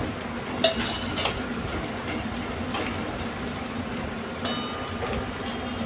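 Chopped garlic, ginger and green chillies sizzling gently in oil in a metal kadai as a metal spatula stirs them, with a few sharp clicks of the spatula scraping and knocking the pan.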